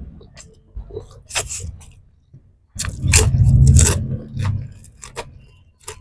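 Close-miked eating: mouth clicks and crisp crunching while chewing. A loud low rumble runs from about three seconds in for over a second, with crunches on top.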